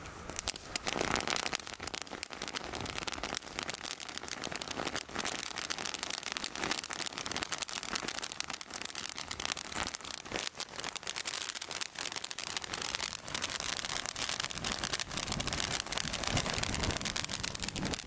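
Consumer firework crackling: a dense, continuous run of sharp pops and crackles that starts about half a second in and keeps on.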